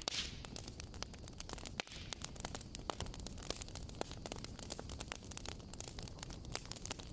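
Wood fire crackling: many irregular sharp pops and snaps over a steady low hiss.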